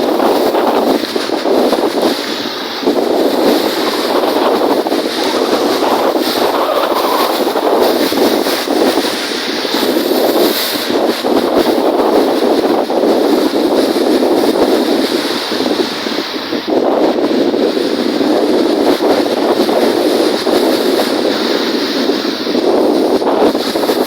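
Strong wind buffeting the microphone over the wash of wind-driven waves on a lake, a steady rushing noise that swells and eases every few seconds.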